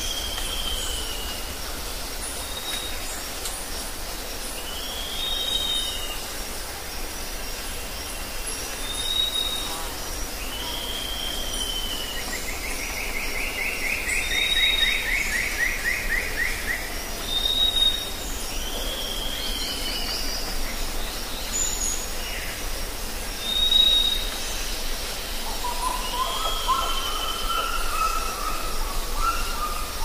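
Birds calling in a forest ambience: repeated short high whistles and arching calls, with a long trill about midway and lower rising calls near the end. A steady high hum and a low rumble run underneath.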